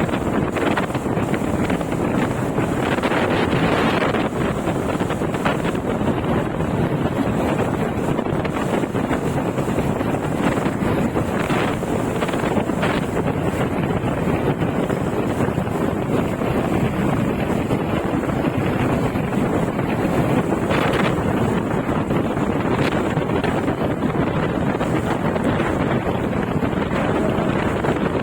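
Steady wind rushing over a phone's microphone on a moving bike, with a few brief louder gusts.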